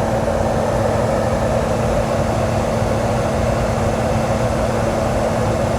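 Detroit DD15 diesel engine of a Freightliner Cascadia running steadily with an even hum during a parked forced regeneration of its aftertreatment system, near the end of the regen.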